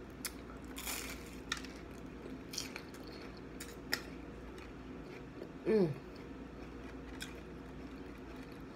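Close-up mouth sounds of a person biting and chewing a fried spring roll, with sparse crisp crackles from the wrapper. About six seconds in comes a short vocal sound falling in pitch, the loudest moment.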